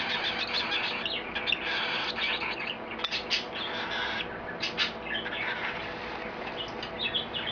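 Baby cockatiel calling to be fed from a spoon: a rapid run of short, scratchy chirps.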